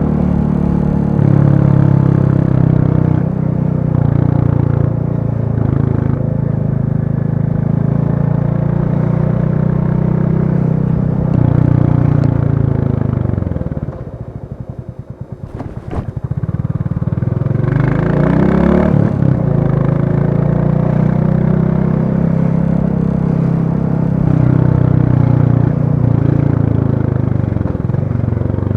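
Royal Enfield Classic 350's single-cylinder engine running at a steady cruise. About halfway through the revs drop off, so that each firing stroke can be heard separately, then climb again as the bike picks up speed and settle back to a steady cruise.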